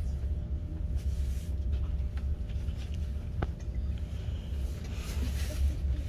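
Class 43 HST train running along the track, heard as a steady low rumble with a sharp click about three and a half seconds in and a brief hiss around five seconds in.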